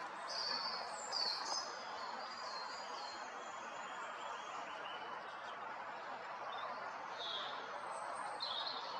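Small birds chirping in short high notes, a cluster in the first two seconds and a few more near the end, over a steady hiss of background noise.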